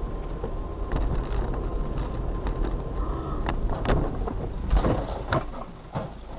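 Steady low rumble of a moving car, with a run of sharp knocks and bangs starting about a second in; they come thicker and louder around four to five seconds, then stop just before the end.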